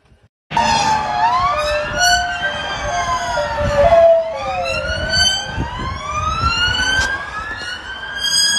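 Several emergency-vehicle sirens wailing at once, their pitches rising and falling slowly and overlapping, over a low rumble of traffic. The sirens start abruptly about half a second in.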